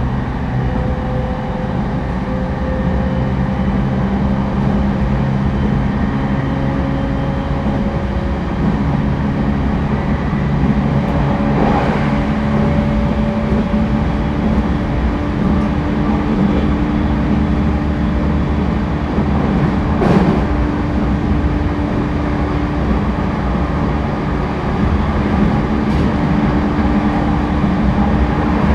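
Running sound inside an E231-1000 series electric train car: steady rumble of wheels on rail under the hum of the traction motors and inverter, whose tones slowly rise in pitch. Two brief knocks come about 12 and 20 seconds in.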